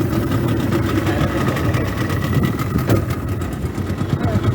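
A motor engine running steadily, with an even low rumble and a faint steady whine above it.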